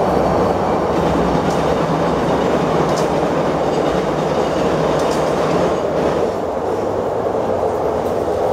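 A passenger train passing close by on the rails, its wheel and track noise steady and easing a little after about six seconds.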